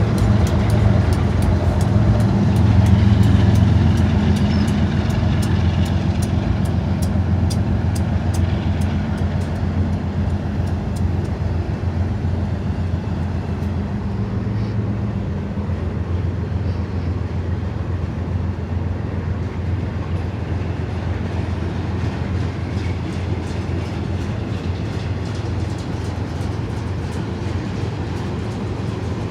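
BNSF freight train passing at trackside: a continuous low rumble that is loudest about three seconds in and eases after about sixteen seconds, with quick sharp wheel clicks over the first dozen seconds.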